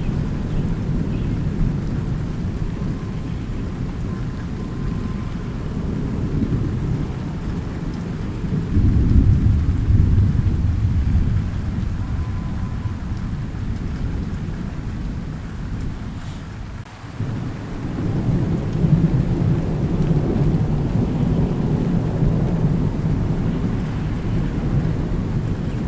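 Thunderstorm: deep rolling thunder over steady rain. The rumble swells about a third of the way in, drops away briefly past the middle, and builds again soon after.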